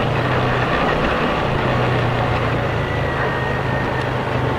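Motorcycle riding: its engine gives a steady low drone under even road and wind noise, picked up by a helmet camera's external microphone.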